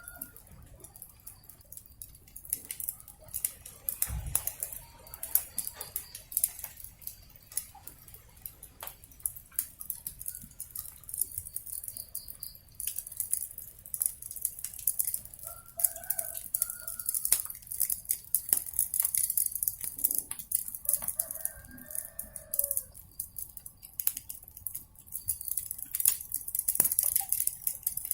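Wood fire crackling and popping over a steady hiss, with chickens clucking briefly twice past the middle.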